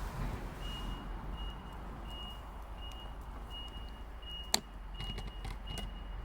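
A high electronic beep repeats evenly, about once every 0.7 s, over a steady low background noise. About four and a half seconds in there is one sharp crack, followed by a few smaller clicks, which fits campfire wood popping.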